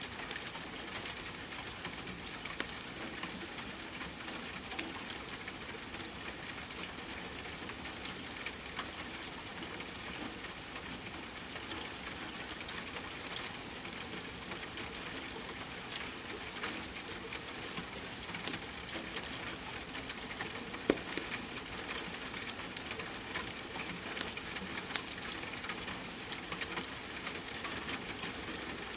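Steady rain with a crackling wood fire: a constant hiss of rainfall, broken by many small sharp pops from the burning logs, one a little louder about two-thirds of the way through.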